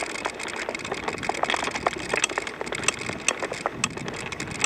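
Bicycle rolling over a rough dirt trail: steady tyre crunch with many sharp clicks and rattles scattered through it.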